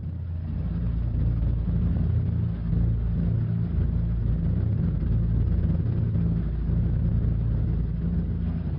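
B-25 Mitchell bomber's twin Wright R-2600 radial piston engines running with a steady, deep rumble, swelling over the first second.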